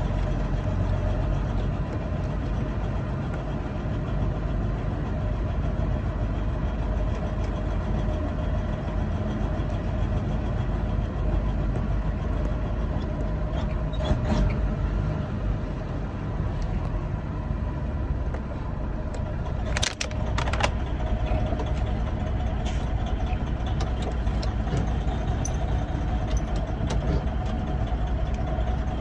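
Semi truck's diesel engine running steadily as the rig creeps along at low speed. A few short sharp clicks or knocks cut through, the loudest about two-thirds of the way in.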